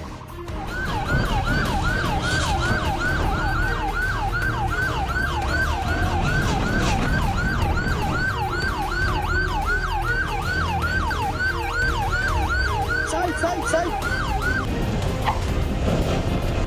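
Police siren in fast yelp mode, rising and falling about three times a second over the low rumble of a moving vehicle, stopping about fifteen seconds in.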